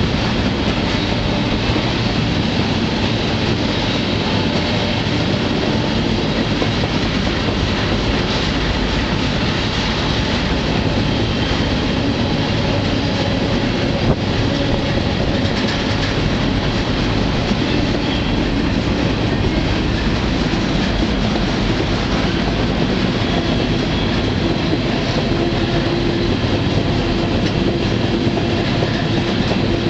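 A freight train running steadily, heard from aboard a rail car: a constant rumble and rattle of wheels on rail, with one sharp knock about halfway through.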